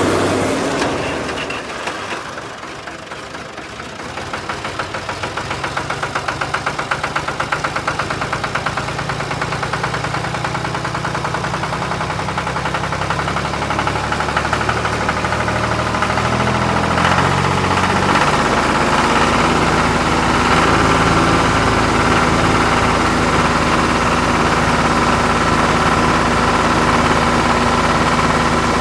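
Engine-like running sound with a fast pulse, dipping briefly near the start and then holding steady.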